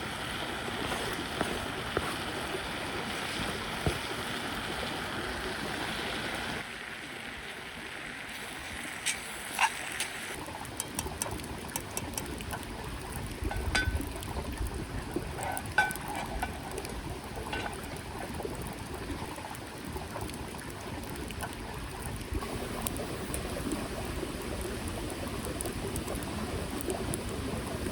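Small mountain creek flowing steadily, with scattered light clicks and knocks over it.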